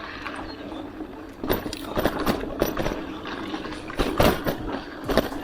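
Hardtail mountain bike being ridden over a dirt trail: tyres rolling with irregular clicks and rattling knocks from the bike over bumps, a few louder jolts along the way.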